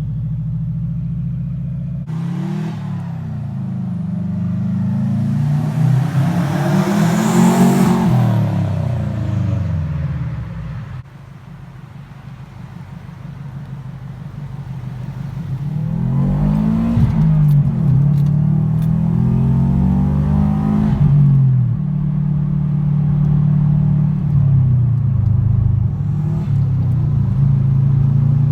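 2004 Subaru WRX's turbocharged flat-four engine through a cheap aftermarket eBay exhaust, revving up hard to a peak about seven seconds in and then dropping away. It pulls again with the pitch rising and falling a few times, then settles to a steady run.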